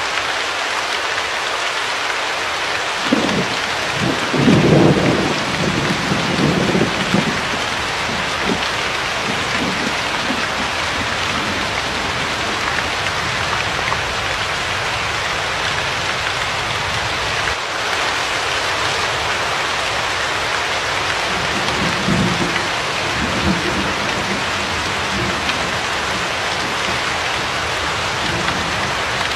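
Steady heavy rain hissing, with a roll of thunder rumbling a few seconds in and a weaker rumble a little past the middle.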